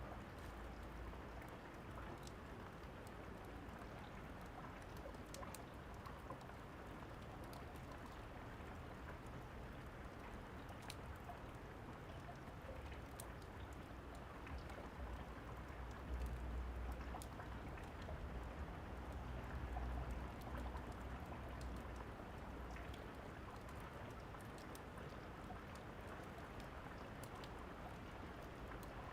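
Steady rain, with scattered sharp snaps of a crackling fire over it and a low rumble of thunder that swells about halfway through.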